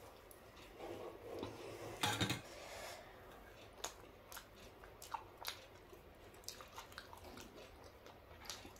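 Close-miked eating sounds: a mouthful of dosa being bitten and chewed, with a louder burst about two seconds in, then many short, sharp wet mouth clicks.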